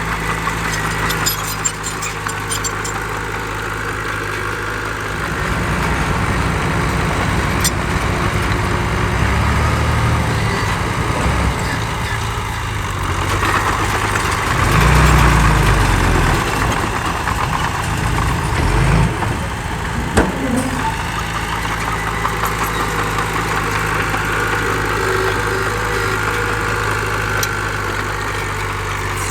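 Heavy diesel earthmoving engine idling, then working harder under load for about fifteen seconds, loudest about halfway through, before dropping back to a steady idle. A few sharp metallic clicks and knocks come near the start and about twenty seconds in.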